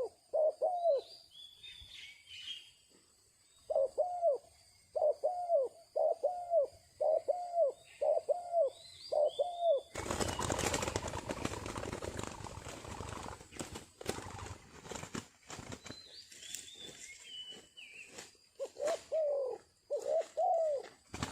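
A dove cooing in runs of short, rapid, arched notes, repeated in bursts. Small birds chirp faintly above it, and about halfway through a loud rustling, flapping-like noise lasts a few seconds.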